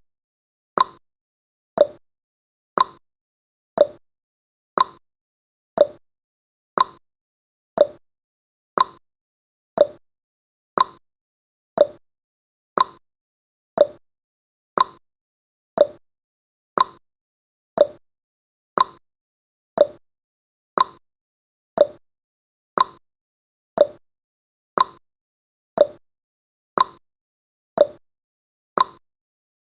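A countdown timer's clock-tick sound effect: one short, sharp tick each second, evenly paced.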